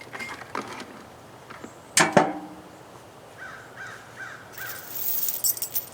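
A few light metal clicks, then a sharp metal clank that rings briefly about two seconds in as a steel cable is set into a tractor-mounted storage rack. Near the end comes a high rattling jingle of loose metal: a chain being handled.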